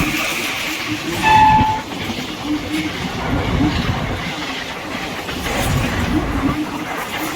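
Express train passing at speed, its wheels clattering over the rail joints with a steady rumble. The locomotive's horn gives a short blast about a second in.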